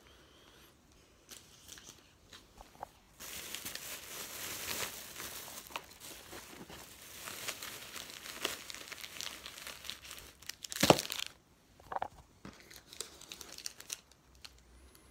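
Plastic packaging crinkling and rustling as items are handled, starting about three seconds in and going on densely for some seven seconds, followed by a sharp knock and a few softer rustles.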